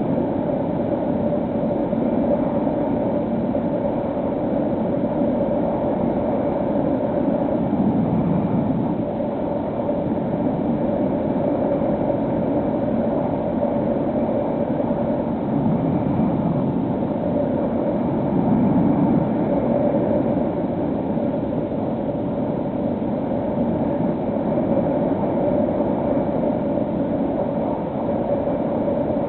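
Electric motor and propeller of a HobbyKing SkyEye FPV plane running steadily in flight: a constant whine with rushing air under it, swelling and easing slightly as the throttle and airspeed vary.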